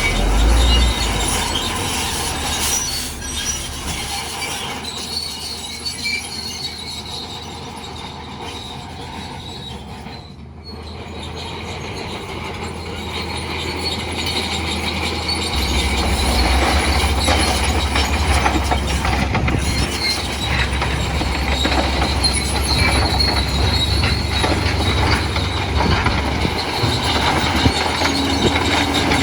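Crawler bulldozer at work: its steel tracks squeal and clank while its diesel engine runs. The engine's low rumble grows heavier and louder about halfway through.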